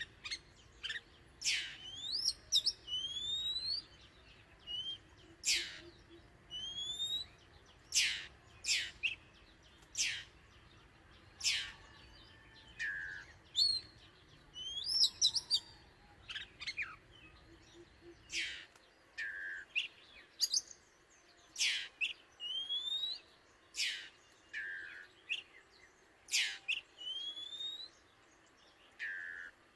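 Oriental magpie-robin singing: a run of short, very high whistled notes about once a second, mixed with rising whistles.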